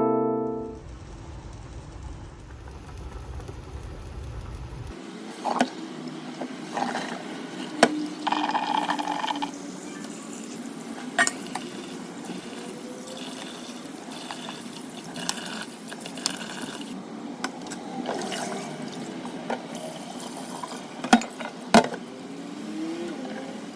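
Kitchen sounds: water running and filling a vessel, with dishes and utensils clinking and knocking now and then. A low hum runs for the first five seconds or so and cuts off.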